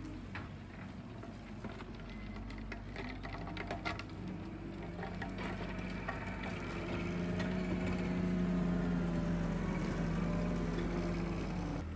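Tractor engine running while power raking, with a string of clattering knocks in the first few seconds. The engine grows louder through the middle and eases off near the end.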